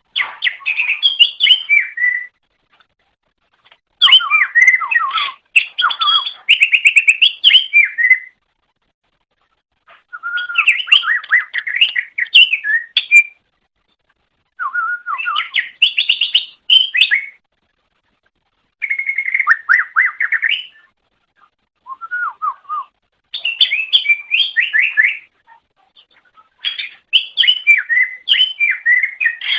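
Cucak ijo (green leafbird) singing: loud phrases of rapid, varied whistles and chirps, each lasting one to three seconds, some eight or nine phrases with short pauses between them.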